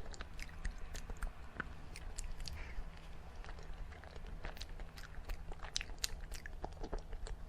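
A person chewing soft dessert close to the microphone, with many small, irregular wet mouth clicks.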